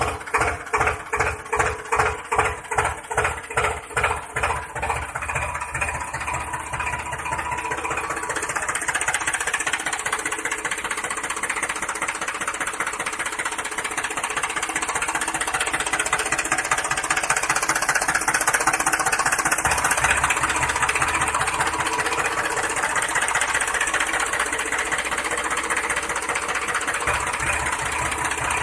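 An engine running, pulsing about four times a second at first, then settling after about six seconds into a steadier, faster running sound that grows slightly louder.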